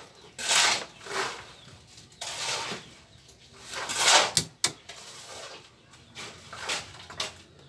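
Hard plastic parts of a washing machine's drain valve being handled and fitted in place: several scraping rubs about a second apart, the loudest around four seconds in, then a couple of sharp clicks.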